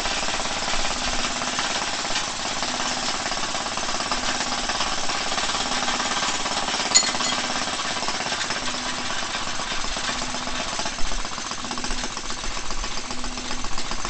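Clinton model 702 ABR 1.5 hp engine on a walk-behind tractor running steadily just after a cold start, firing in a fast, sharp rattle. A single sharp click comes about seven seconds in and a thump about eleven seconds in.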